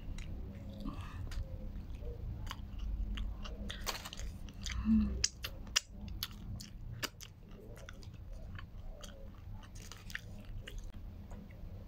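Close-up chewing and biting of a shawarma wrap: wet mouth clicks and small crunches, with a louder bite about five seconds in.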